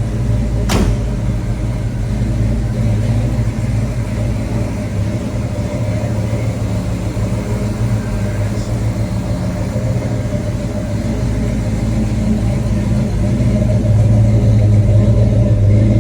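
1970 Chevrolet Chevelle SS 396's V8 engine running steadily, growing louder near the end. A single sharp knock sounds about a second in.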